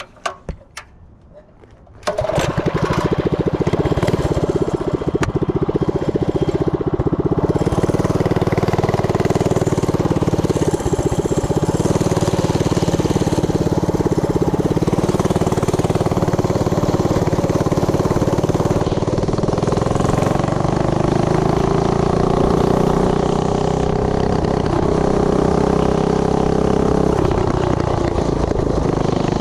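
Tillotson 212 single-cylinder four-stroke engine on a mini bike starting about two seconds in, then running steadily, its pitch creeping up a little past the middle. It is being tuned and runs without an air filter.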